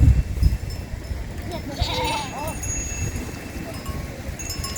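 Sheep bleating, one clear call about two seconds in and fainter ones around it, over a steady rushing background.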